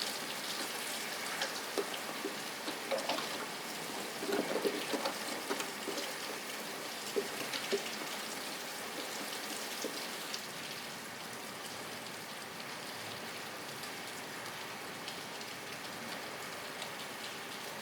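Steady rain hiss with separate drops ticking on a surface, the drops more frequent in the first half.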